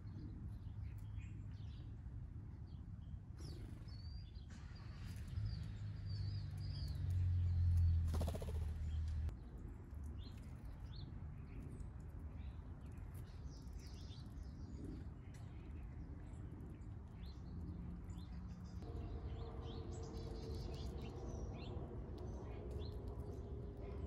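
Small wild birds chirping and calling, with many short high chirps scattered throughout. A low rumble swells and fades in the middle, and a steady hum comes in near the end.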